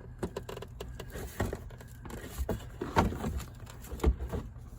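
Irregular light knocks, clicks and rustling from hands working at the carpet and interior trim inside a stripped car.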